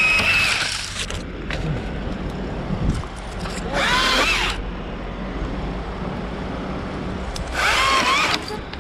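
A chainsaw revving briefly twice, each rev a quick rise and fall in pitch, about four and eight seconds in. Under it run a steady low engine hum and wind noise on the microphone.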